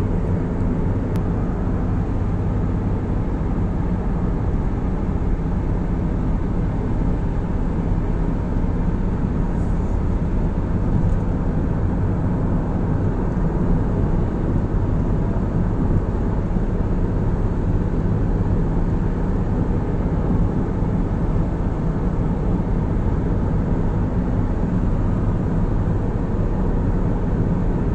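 Steady low rumble of a car driving along a road, tyre and engine noise at an even level.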